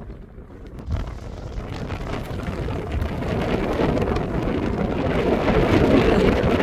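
Strong mountain wind buffeting the microphone in a rumbling roar that builds steadily louder as a gust strengthens.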